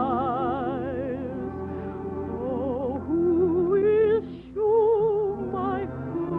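Operatic-style singing with a wide vibrato over orchestral accompaniment, from an old radio recording. A strong sustained voice comes in about three seconds in, breaks off briefly, then carries on.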